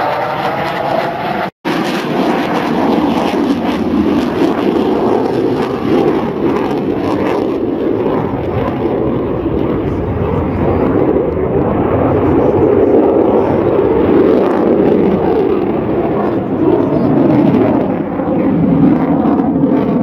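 Jet noise from Su-27 fighters flying a display: a loud, steady rushing rumble with no break except a brief dropout about a second and a half in.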